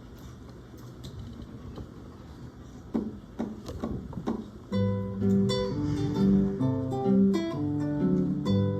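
Live instrumental music starting up: after a few seconds of quiet room noise and a few short strums, a trio's introduction begins about five seconds in, with held chords that change in a steady rhythm.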